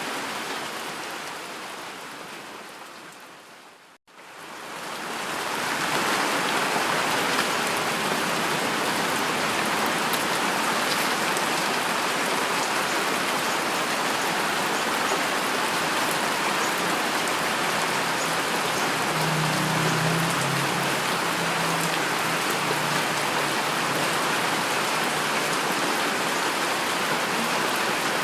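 Recorded heavy rain falling as an even, steady hiss. About four seconds in it fades out to a moment of silence, then fades back up and runs on steadily.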